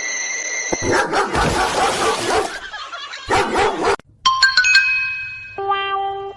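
A steady high tone cuts off about a second in, then a dog barks in two rough outbursts. Near the end come ringing chime notes and a descending, stepped sad-trombone sound effect.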